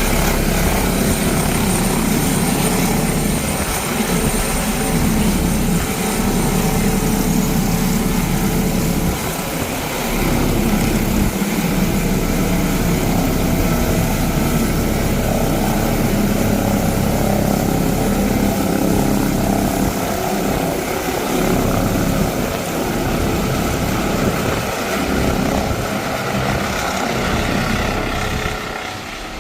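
Airbus ACH145 (BK117 D-3) helicopter running, its twin turboshaft engines and rotors making a loud, steady sound that wavers slightly and drops in level near the end.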